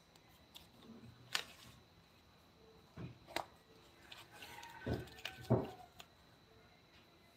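About half a dozen scattered knocks and clicks at irregular intervals, the two loudest, about five seconds in, with a low thud.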